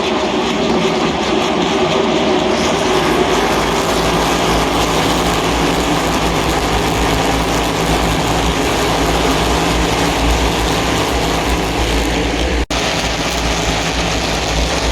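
NASCAR Cup Series stock cars' V8 engines running on track as the field races by: a loud, continuous, rumbling engine roar, broken by a momentary dropout near the end.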